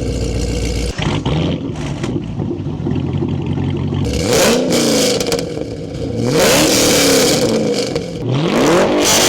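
Supercharged 6.2-litre LSA V8 with an aftermarket exhaust idling, then revved hard three times, each rev climbing and falling in pitch.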